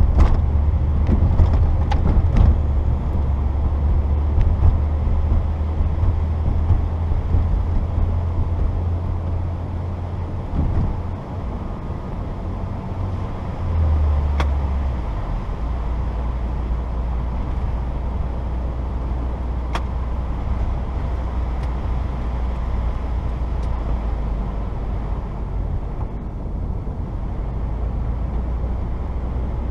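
Cabin sound of a 1994 Saturn SL2 driving on snow: its twin-cam four-cylinder engine runs with a steady low drone under road noise. The engine note dips about ten seconds in and changes again around fourteen seconds in.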